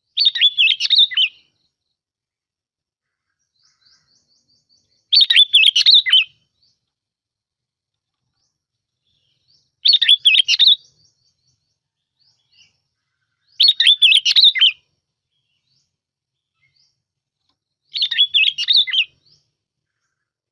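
A bông lau bulbul singing five short, warbling phrases, each about a second long and a few seconds apart, from a lure recording used to call the birds in.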